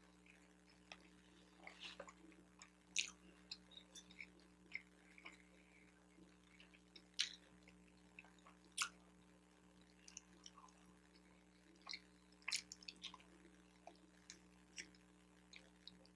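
Close-miked chewing and mouth sounds from eating a bacon, egg and Swiss cheese everything bagel sandwich: scattered soft, wet clicks and smacks, a few sharper. A faint steady hum runs underneath.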